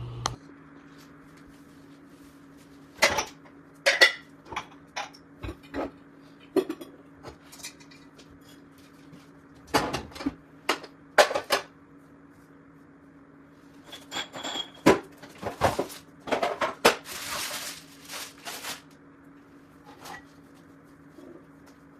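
Dishes and serving platters clinking and knocking as they are taken out of and set into a kitchen cupboard, with cupboard doors knocking in between, in scattered bursts over a faint steady hum.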